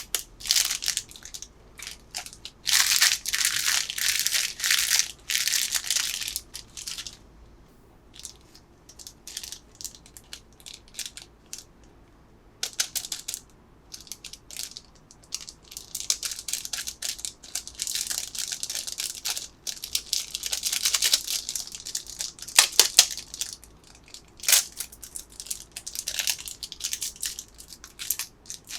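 Plastic candy packaging crinkling and crackling in repeated bursts as it is handled and opened, with a few sharp clicks near the end.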